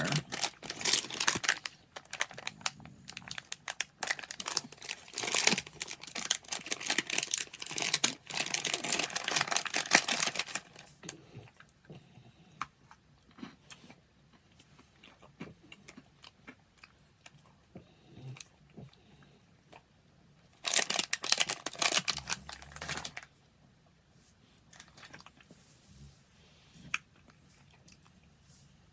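Plastic snack wrapper crinkling and being torn open, a dense crackle for about ten seconds, then quieter, with a second short burst of crinkling about twenty-one seconds in.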